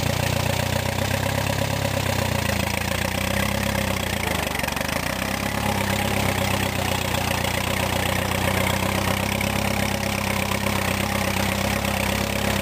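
1952 Case VAC tractor's four-cylinder overhead-valve engine running steadily. Its note shifts about four seconds in, then holds even again.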